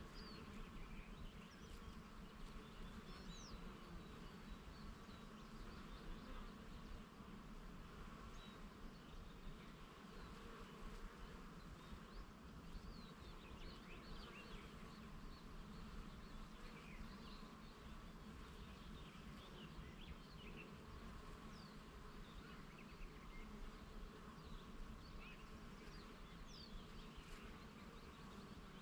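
Bees buzzing steadily around flowers, faint, with many short high bird chirps and calls scattered throughout.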